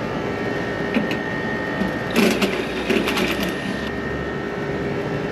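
Rooftop air-conditioning units running with a steady hum and a held tone. A cluster of sharp metallic clanks and rattles comes about two to three and a half seconds in, with a single click about a second in.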